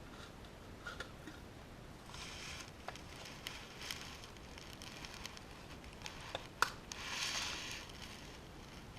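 Handling noise from the Sony Reader PRS-505 being worked on during a battery change: scattered light clicks and two short scraping rubs, with the sharpest click about two-thirds of the way through.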